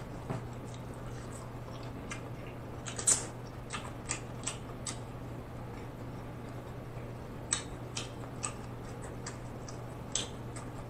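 Close-miked mouth sounds of chewing shellfish meat with the mouth closed: soft wet smacks and clicks at irregular intervals, over a steady low hum.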